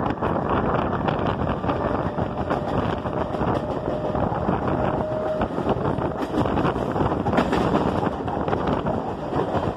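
Running noise of a moving electric suburban train, heard from its open doorway: steady rumble and clatter of wheels on the track mixed with wind buffeting the microphone. A faint thin whine rises slightly in the middle for a few seconds.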